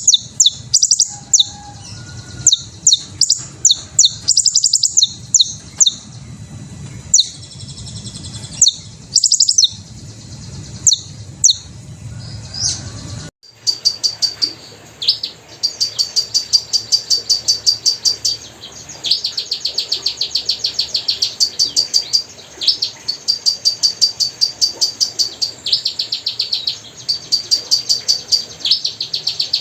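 Hummingbirds chirping and twittering in sharp, high-pitched squeaky notes. About 13 seconds in the sound breaks off briefly. It resumes as fast trills of rapidly repeated high chips.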